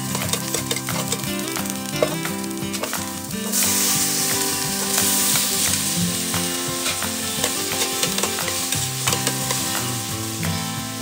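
Onion, tomato, ginger and garlic sizzling in a little oil in an aluminium pot, stirred with a metal ladle that clicks and scrapes against the pot. The sizzle grows louder about three and a half seconds in.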